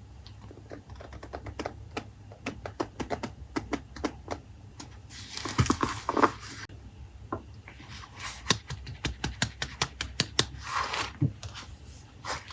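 Paper-craft handling on a desk: a rapid, irregular run of light taps and clicks, with two bursts of paper rustling partway through and near the end.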